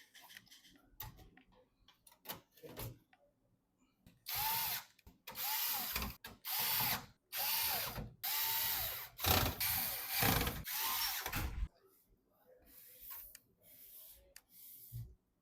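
A small electric screwdriver driving screws into PC parts in a series of short whirring runs, its motor pitch rising and falling with each run. Light handling clicks come before and after.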